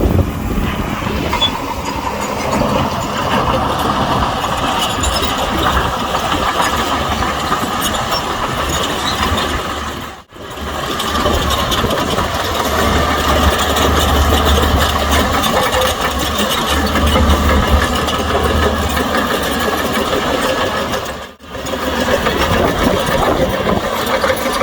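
Heavy diesel engine of earthmoving machinery running steadily with a deep low rumble, which grows stronger for a few seconds past the middle; the sound drops out briefly twice.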